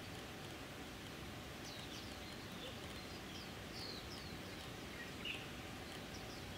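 Outdoor background ambience, a steady low hiss, with a bird giving short, high, falling chirps, a few a second from about two seconds in, and one louder chirp a little after five seconds.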